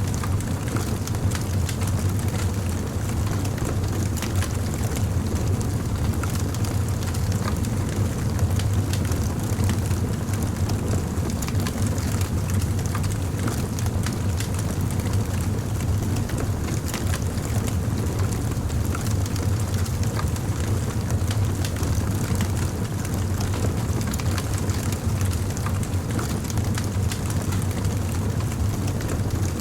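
Fire crackling, with frequent small sharp snaps and pops scattered over a steady low rumble.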